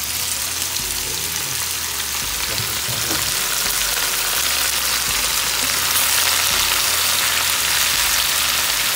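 Morel mushrooms sizzling in hot fat in a cast-iron skillet with fried meat, stirred with a wooden spatula. The sizzle grows steadily louder.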